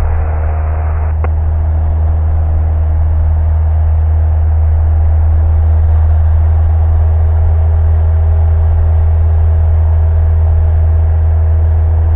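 Cessna's piston engine at full power for a go-around, a loud steady drone with a deep hum. A single short click sounds about a second in.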